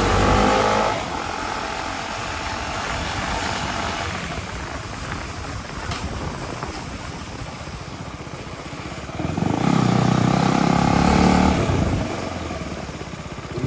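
Motorcycle being ridden: the engine note is loud in the first second and again for a couple of seconds near the end, over steady wind rush on the microphone.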